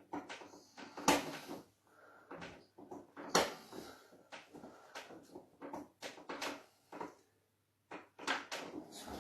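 Irregular light knocks, slaps and rustles of hands working on a person's back during a massage, with two sharper slaps about a second and three and a half seconds in.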